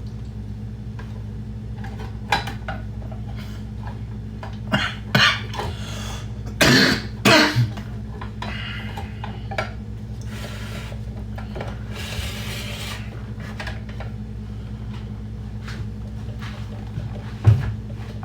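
Kitchen handling sounds over a steady low hum: scattered knocks and clinks of dishes or coffee-making gear and a few short scraping or rustling bursts. The loudest clusters come about five and seven seconds in, with a single sharp knock near the end.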